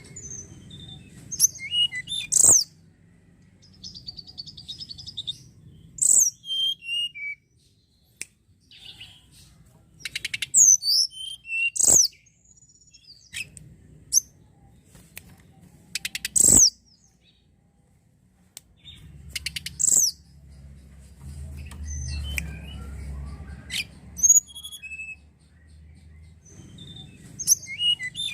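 Tledekan gunung singing in bursts of high chirps, whistles and short trills, phrase after phrase with short pauses between. Sharp clicks punctuate the song several times.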